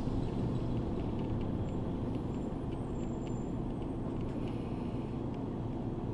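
Cabin sound of a moving city route bus: a steady low engine and road rumble with faint scattered light clicks and rattles.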